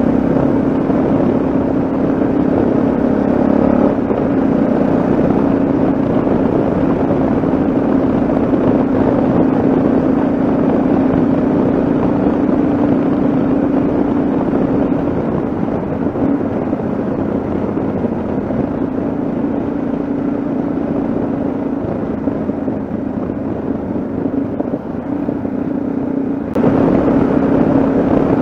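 Yamaha XT660Z Ténéré's single-cylinder engine running at a steady cruising speed under a constant rush of road and wind noise. The level dips a little past the middle, then jumps up suddenly near the end.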